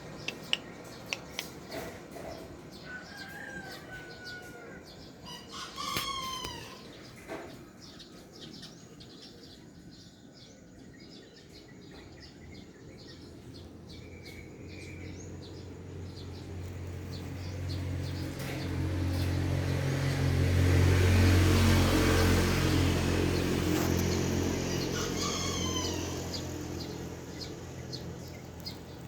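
Chicken calls, each a short cry falling in pitch, about six seconds in and again near the end, over faint bird chirping. In between, a low engine hum swells and fades over about ten seconds, like a motor vehicle passing; it is the loudest sound.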